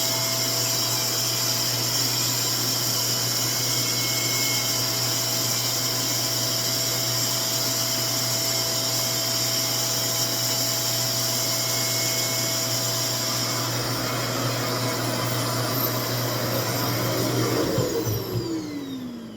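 RevAir reverse-air hair dryer running with a steady motor whir and hum. Near the end it is switched off and the motor winds down with a falling whine.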